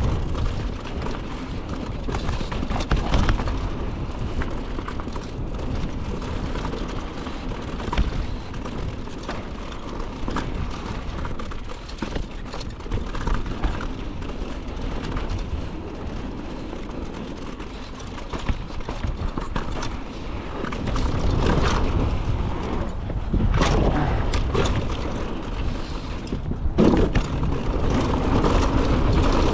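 Mountain bike riding down a dirt trail: wind rushing over the microphone, tyre noise and the bike rattling, with sharp knocks over bumps. It gets louder for the last several seconds.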